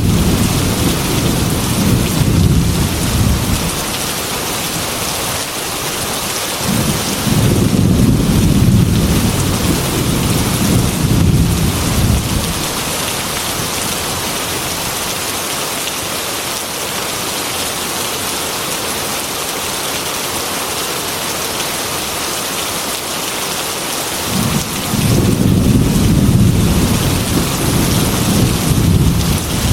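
Heavy rain beating steadily on window glass, with three long, low rolls of thunder: one at the start, one about a third of the way in, and one near the end.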